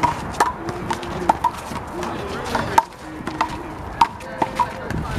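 A one-wall handball rally: a rubber big blue handball is slapped by open hands, strikes the wall and bounces on the court. It makes a quick, irregular series of sharp smacks, several each second.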